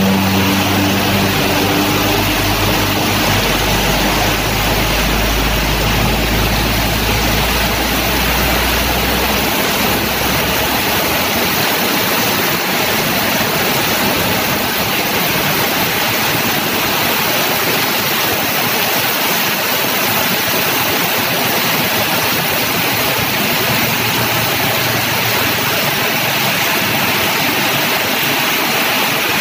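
Heavy rain pouring steadily onto a flooded road, a loud, even hiss. For roughly the first ten seconds a truck's engine drones low beneath the rain, then fades out.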